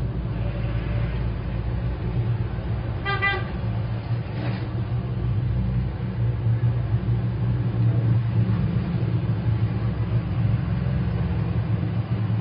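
Steady low rumble of road traffic, with a brief horn toot about three seconds in.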